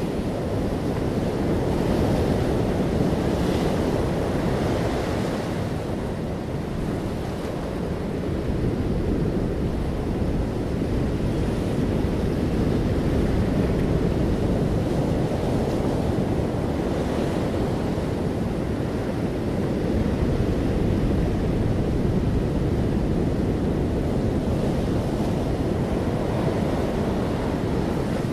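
Sea waves washing in, a steady rushing noise that swells and eases, with wind on the microphone.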